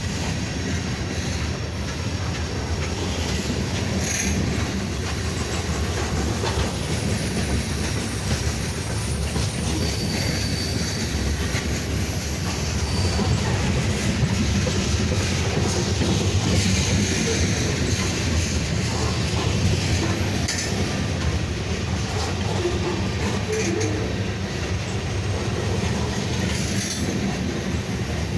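Freight cars of a slow manifest train rolling past on jointed rail: a steady low rumble with wheel clatter and faint wheel squeal, a brief high squeal about ten seconds in.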